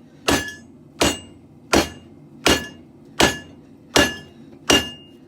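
Hand hammer striking hot steel on an anvil: seven steady blows about three-quarters of a second apart, each with a short metallic ring, drawing out a katana blank.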